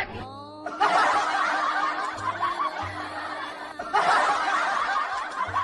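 Laugh track of many people laughing over light background music, a burst starting about a second in and a second fresh burst around four seconds in.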